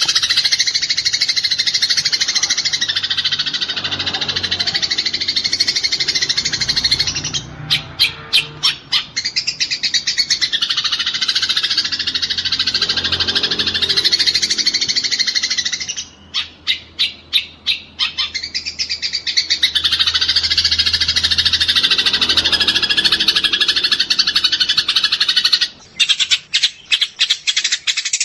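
Eurasian tree sparrows giving their fighting calls: a dense, continuous chatter of high chirps, broken three times by quick runs of sharp separate chips.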